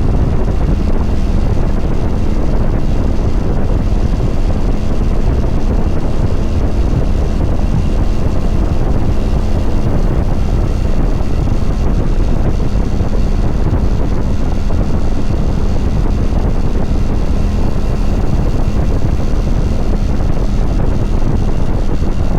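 2022 Kawasaki Vulcan 900 Classic LT's V-twin engine running at a steady speed under heavy wind rush on the microphone, with no change in pitch or level.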